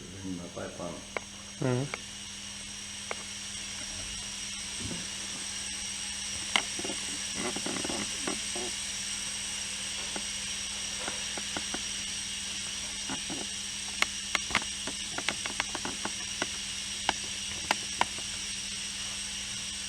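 Steady hum and high-pitched whine from a compressed-air test setup on a pneumatic pressure transmitter, with scattered sharp clicks, most of them in the second half, and brief indistinct voices.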